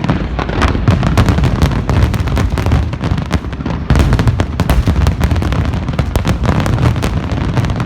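Fireworks display: a dense, unbroken barrage of bursts and crackle over a continuous low rumble, easing briefly a little before the middle and then coming back suddenly louder.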